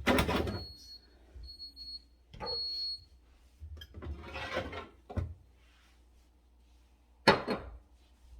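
A refrigerator's door-open alarm beeps three times, short high tones in the first three seconds, because the fridge door is open. Over it, plastic containers and jars clatter and rustle as they are taken out and set down, with sharp knocks at the start and about seven seconds in.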